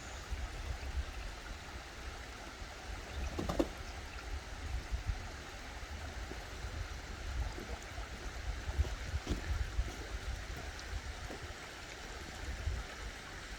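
Stream water flowing steadily, with a few brief splashes from eastern spot-billed ducks bathing in it, the clearest about three and a half seconds in.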